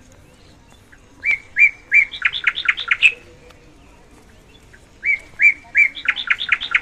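A bird calling loudly, in two phrases, about a second in and again about five seconds in. Each phrase is three even notes followed by a quick run of short rising notes.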